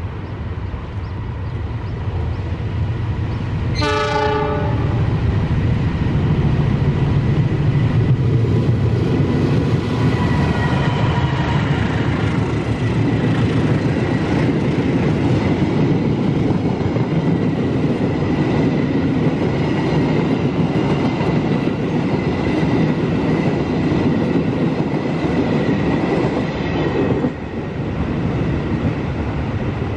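Passenger train's diesel locomotive sounds one short horn blast, then the train runs close past. The wheels rumble and clatter on the rails under a steady high whine, and the noise drops off abruptly near the end as the last coach goes by.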